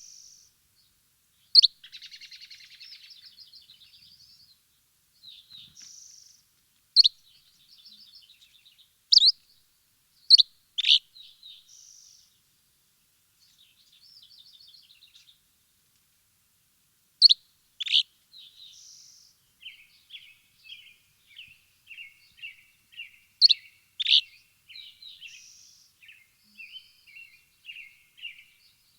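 Songbirds chirping: loud, sharp high chirps, often in pairs a moment apart, with softer rapid twittering trills between them and a few short pauses. The twittering grows busier and steadier in the last third.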